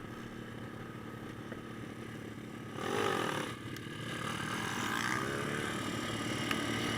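Small single-cylinder pit bike engine running steadily, then revved about three seconds in, and pulling harder with rising pitch from about four seconds on.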